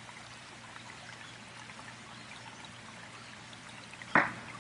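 Steady rushing of running water, like a stream. A single loud, short burst breaks in near the end.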